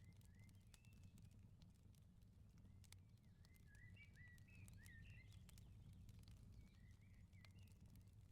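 Faint outdoor firepit crackling, with scattered sharp pops over a low steady rumble, while a small bird twitters in short chirps, busiest in the middle.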